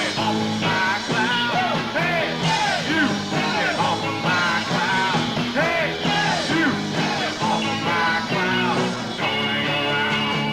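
Live rock band playing loudly: electric guitars, bass guitar and drums, with notes repeatedly sliding up in pitch and back down.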